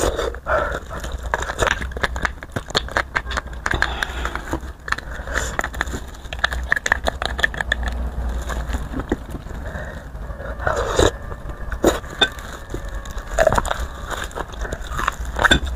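Close-miked eating of spicy beef bone marrow: wet chewing and mouth sounds with a dense run of small clicks and crackles, and a few sharper clicks near the end.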